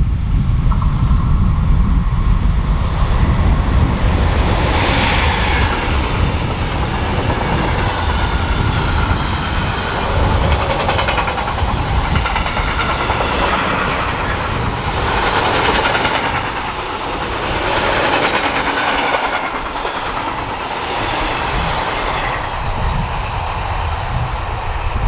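A train passing on a mainline railway: a heavy low rumble with wheel-on-rail clatter that swells and fades every couple of seconds as the cars go by. A thin steady whine runs over it from about a second in.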